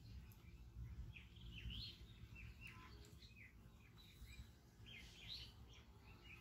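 Small birds chirping faintly, many short, quick high calls, several a second, over a low steady background rumble.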